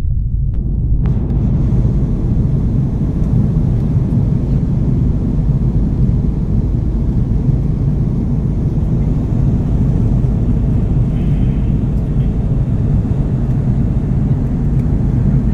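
Airbus A330 airliner heard from inside the cabin: a loud, steady rumble of the engines and airflow, with most of the sound low-pitched.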